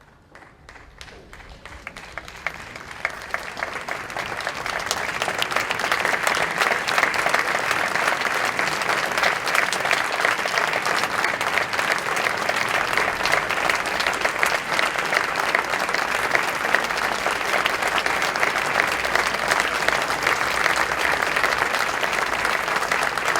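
Audience applause: a few scattered claps at first, building over about four seconds into dense, steady applause.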